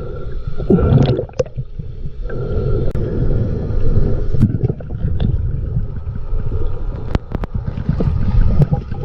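Seawater gurgling and sloshing around the microphone, with scattered sharp clicks.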